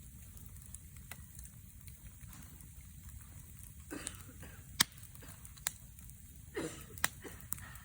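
Wood fire crackling over a low steady rumble, with a few sharp pops in the second half.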